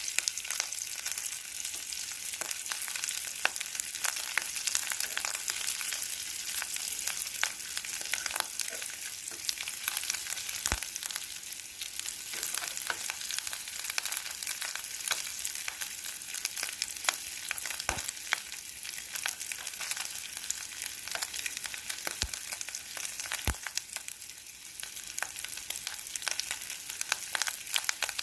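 Dried fish frying in hot oil: a steady crackling sizzle with scattered sharp pops.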